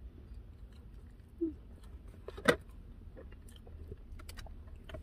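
People chewing and eating cake, with small clicks from a fork and a cardboard box, and one sharp click about two and a half seconds in. A short hummed note comes just before it.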